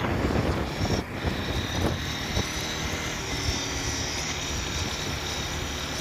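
Motorcycle engine running at a steady cruise, with road and wind noise on the microphone.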